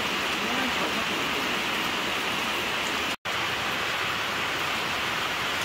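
Rain falling steadily, an even hiss. The sound cuts out completely for an instant about three seconds in.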